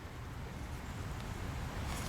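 A low, steady background rumble with no distinct events.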